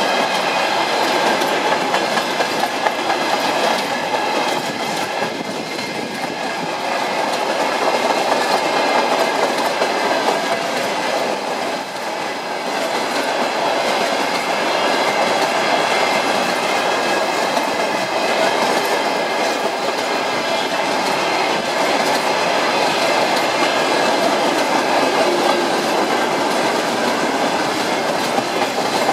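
Freight train wagons rolling past at a steady speed, their wheels running over the rails in a continuous noise that holds steady, with two brief slight dips.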